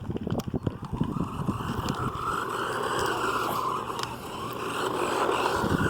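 Hosim S911 RC truck's electric motor whining, the pitch drifting up and down with the throttle, over a rough low rumble.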